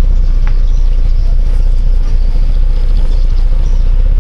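Steady, loud low rumble of vehicle noise, with one short high chirp about half a second in.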